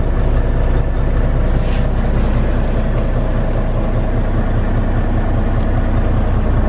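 Volvo D13 diesel engine idling steadily, heard from inside the truck's cab, a constant low hum with no change.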